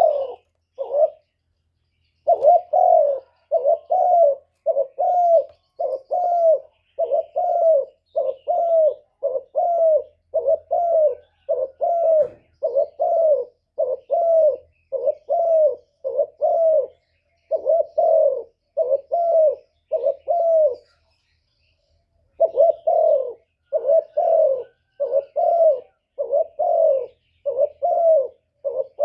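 Spotted dove cooing: a long rapid run of short coo notes, about two a second, pausing briefly just after the start and again about three-quarters through.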